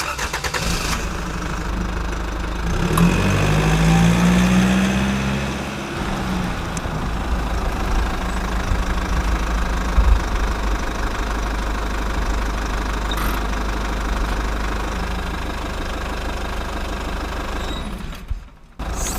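Tractor engine idling with a knocking beat, revving up and back down about three seconds in, then settling to a steady idle. It drops out briefly near the end.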